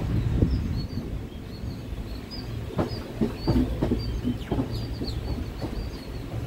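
Small birds chirping in quick repeated high notes over a low, steady rumble.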